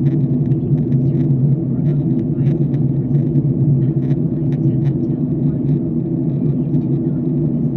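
Steady low drone inside a jet airliner's cabin in flight: engine and airflow noise, even and unchanging.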